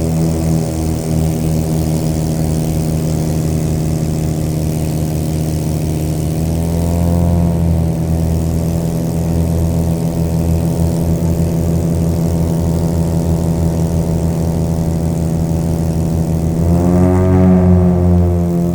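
Propeller airplane engine running steadily, its pitch rising briefly about six seconds in and again near the end as the power changes.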